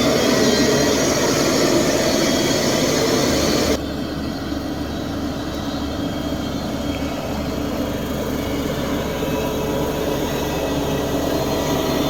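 Heavy diesel machinery engine running steadily. About four seconds in, the sound abruptly turns quieter and duller, then runs on evenly.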